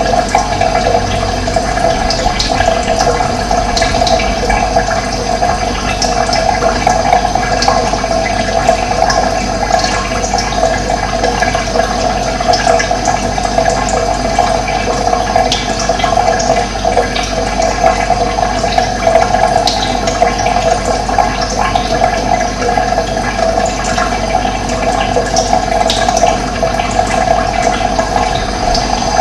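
Running water rushing steadily, with brief high bird chirps scattered through it.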